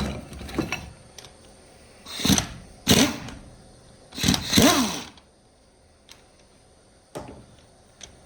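Metal parts of a truck steering column being handled and worked on: a knock at the start, then three bursts of clattering and scraping metal between about two and five seconds in, followed by a few light taps.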